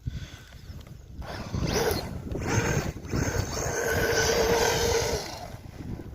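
Traxxas Rustler 4x4 RC truck driving on paddle tyres in snow: its electric motor whines at a steady pitch for about four seconds from about a second and a half in, over a low rumble.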